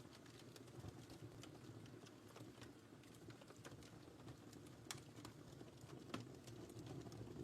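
Wood fire crackling: a faint low rumble of flames with scattered small pops, two sharper ones about five and six seconds in.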